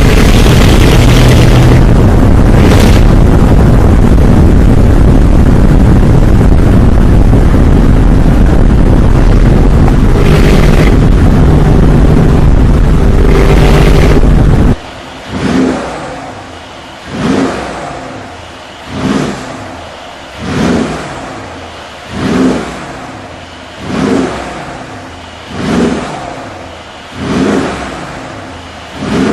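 Mercedes G63 Brabus V8 through its tuned exhaust: held at high revs, loud and steady, for about the first half. Then, after an abrupt change about halfway, it is blipped repeatedly, about eight quick revs each falling back toward idle.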